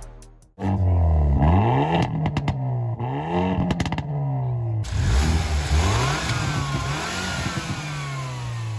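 Hyundai i30 N's turbocharged four-cylinder engine revved repeatedly, the pitch climbing and falling with each blip, with sharp crackles and pops from the exhaust as it comes off the throttle. In the second half it holds a steadier, higher rev with a slow rise and fall.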